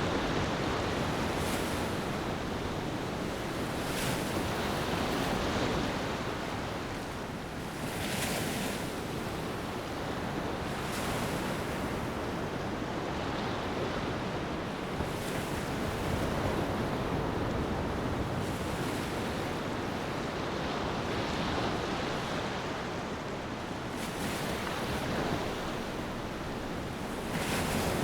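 Ocean waves washing onto a beach, a steady surf rush with swells breaking every few seconds, and some wind.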